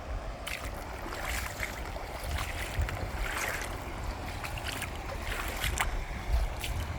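Footsteps crunching over riverbank gravel and stones, irregular sharp clicks, over a steady rumble of wind on the microphone.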